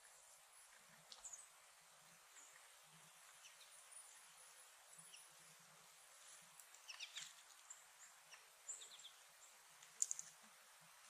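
Faint, scattered chirps and short calls of small songbirds, with a few sharper clicks about seven and ten seconds in.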